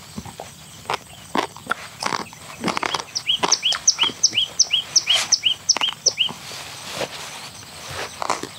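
A bird calling a quick run of about a dozen short, falling chirps, about three or four a second, in the middle of the stretch. Around it, sharp clicks and crunches of eating with a spoon from a bowl.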